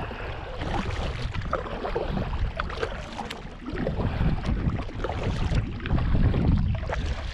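Kayak paddle strokes dipping and splashing in the water, with wind rumbling on the microphone.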